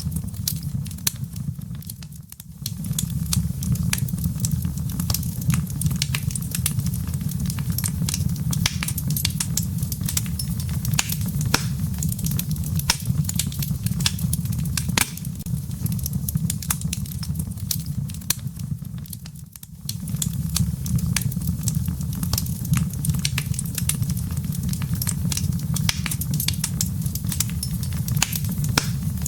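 Wood fire in a fireplace crackling, with frequent sharp pops and snaps of burning embers over a steady low rumble of flame. The sound briefly drops away twice.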